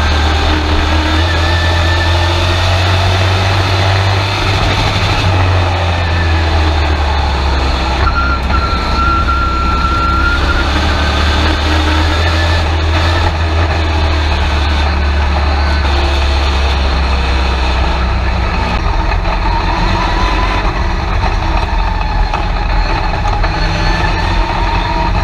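Race truck's engine heard from inside the cab at racing speed, loud and steady, its pitch rising and falling a little through the laps.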